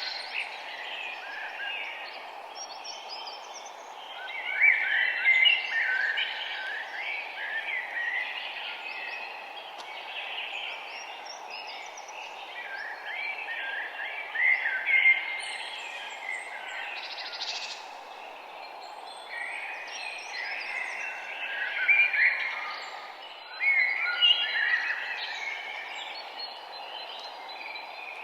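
Several songbirds singing and chirping in repeated short phrases, some loud and close, over a steady low rushing background noise.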